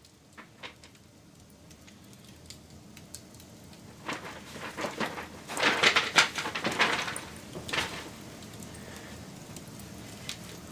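Wood fire crackling, with scattered sharp cracks and a dense, louder flurry of crackles from about four to eight seconds in.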